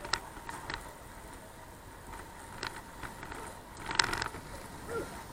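Irregular mechanical clicks and rattles from a bicycle being ridden, with the loudest click about four seconds in.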